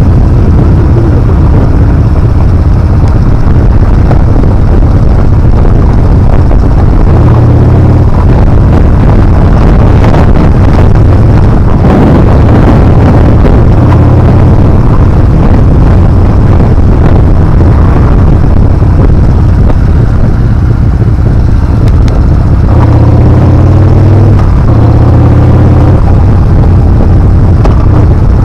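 Yamaha Bolt R-spec motorcycle riding with its V-twin engine running, the engine note shifting several times, under loud, heavy wind buffeting on the camera microphone.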